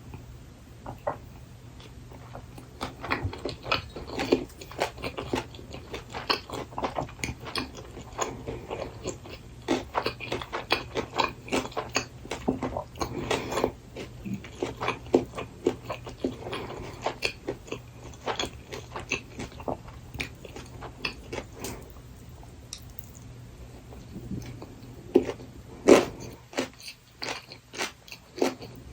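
Close-up chewing of gimbap with burdock root: wet, irregular chewing with small crunches and clicks, thinning out in the last few seconds apart from one louder bite or click near the end.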